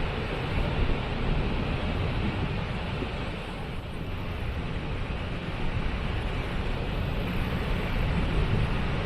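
Waterfall rushing steadily, a continuous roar of falling water with a deep rumble underneath.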